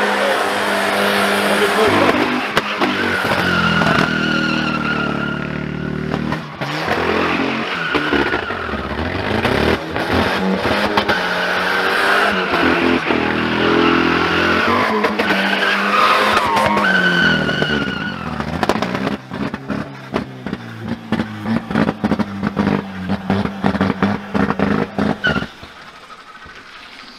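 A car engine revving hard again and again as the car slides around on snow, its pitch climbing and falling with each burst of throttle, with a wavering high whine at times. It grows fainter about two-thirds of the way through and drops away shortly before the end.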